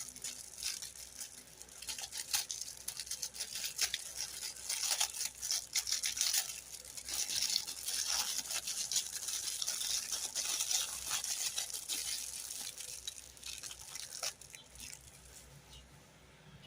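Dense crackling and rustling with many small clicks as a plastic toy is handled. It fades away over the last couple of seconds.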